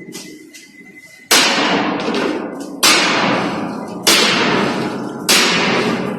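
Heavy hammer blows on steel plate, four strikes about a second and a half apart, each ringing out after the hit.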